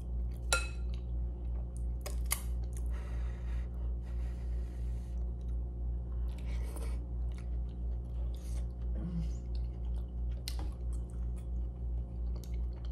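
Close-up sounds of a person eating a saucy seafood boil: wet chewing, biting and lip smacks, with a few sharp clicks, over a steady low hum.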